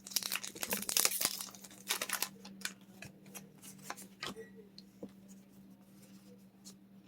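A foil Pokémon booster pack being torn open: dense tearing and crinkling for the first two or three seconds, then thinning to scattered light ticks and rustles as it is handled.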